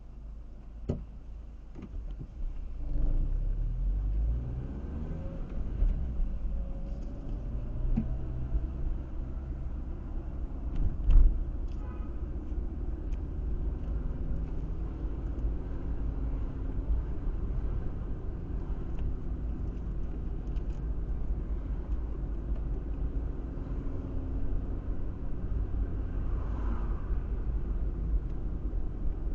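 Car driving, heard through a dashcam: a steady low road and engine rumble that picks up about three seconds in, with an engine tone rising in pitch as the car accelerates. A few short knocks come in the first dozen seconds.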